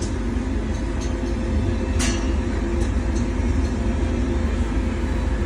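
Motor in the top of a custom refrigeration unit running with a steady low hum and rumble, with a sharp click about two seconds in. The motor is running warm and is due to be replaced.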